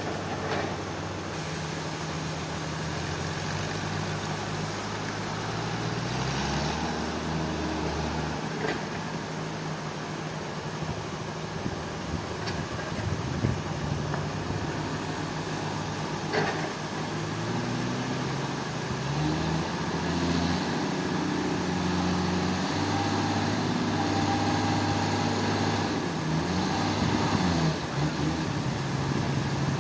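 Engine of heavy log-handling machinery running under load, its pitch stepping up and down as the revs change, with a few sharp knocks in between.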